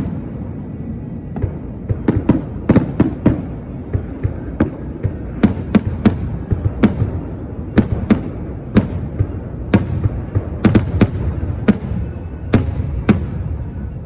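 Fireworks going off: an irregular series of sharp bangs and pops, several a second at times, over a continuous low rumble.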